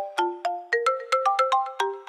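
iPhone ringtone playing: a quick, repeating melody of short struck, bell-like notes, several a second.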